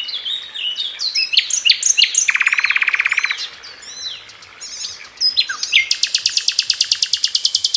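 A male bird singing its song to females: a varied string of quick chirps and whistles, broken by two fast trills. The first trill is short and lower, about two seconds in. The second is longer and higher, starting about six seconds in.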